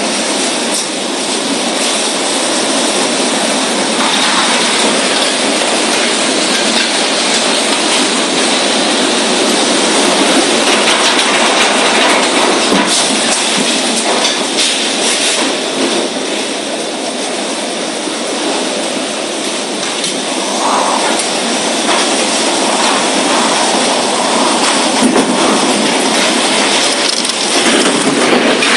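Loud, steady rushing noise of a storm, keeping up without a lull throughout.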